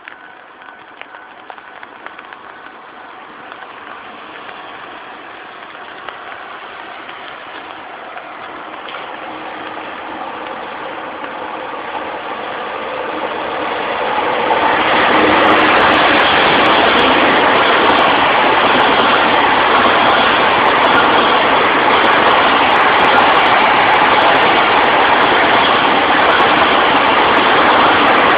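DD51 twin-engined diesel-hydraulic locomotive hauling a freight train of container wagons, approaching with its engine growing steadily louder. About halfway through the train reaches the microphone and passes close by in a loud, steady rumble.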